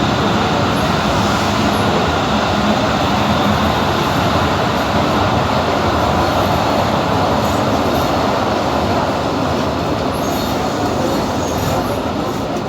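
Passenger train under way, its wheels running on the rails in a loud, steady rumble.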